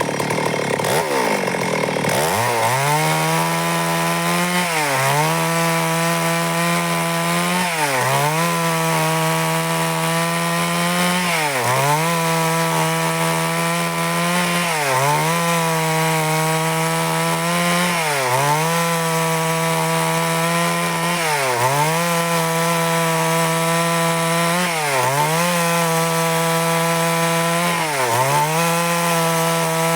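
Stihl MS 382 two-stroke chainsaw cutting wood at high revs. It revs up about two seconds in, then runs on with its pitch dipping briefly and recovering about every three to four seconds.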